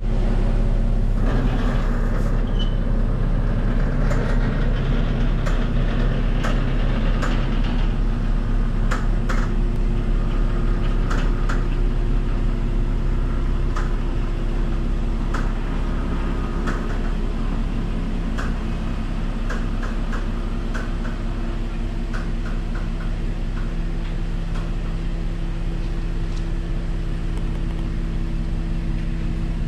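Porsche Cayenne 3.6 V6 running steadily through an aftermarket Thunder transverse rear muffler with single outlets on each side, heard from the exhaust. It settles a little quieter after about thirteen seconds, with scattered light clicks in the middle.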